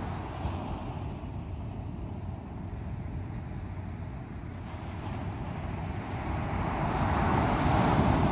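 Strong sea waves washing on the shore: a steady rush of surf, with a wave building and breaking near the end, the loudest moment.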